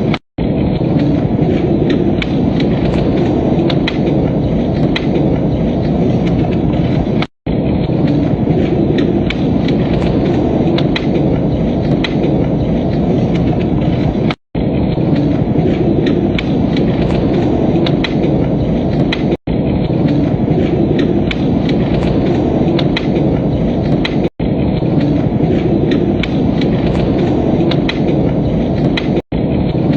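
Fire crackling with scattered sharp pops over a steady low rumble, broken by brief dropouts to silence about every five to seven seconds.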